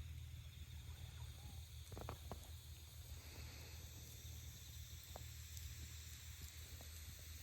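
Faint wood campfire crackling: a few sparse soft pops over a steady low hum and a light hiss.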